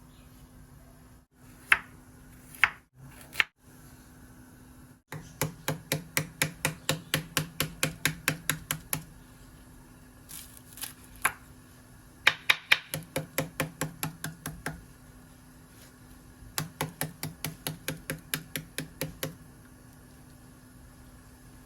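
Knife chopping on a cutting board: three separate cuts, then three runs of quick, even chops at about five or six a second, each run lasting a few seconds. A faint steady hum runs underneath.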